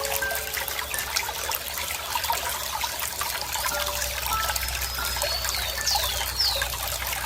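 Running water trickling steadily over stones, full of small splashes and plinks. About five and a half seconds in, a bird gives a few quick falling whistled notes.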